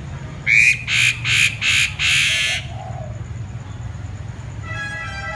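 A bird gives five loud, harsh calls in quick succession, the last one longer, then a fainter buzzy, pitched call near the end.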